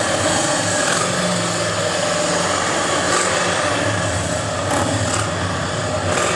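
Steady engine noise of motor vehicles running, a continuous hum with no clear rise or fall.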